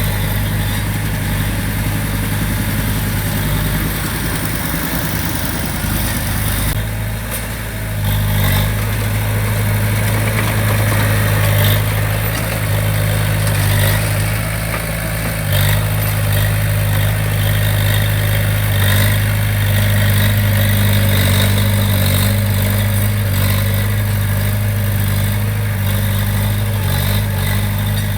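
Heavy diesel engine of construction machinery running steadily with a strong low hum. It eases off briefly about seven seconds in, then picks up again.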